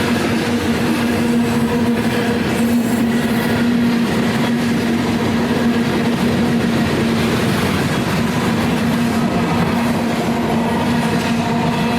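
A train rolling past, a steady rumble of wheels on the rails with a steady low drone under it.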